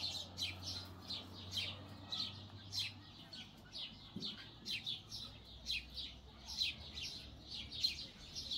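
Small birds chirping continuously, several short high chirps a second, over a faint low hum.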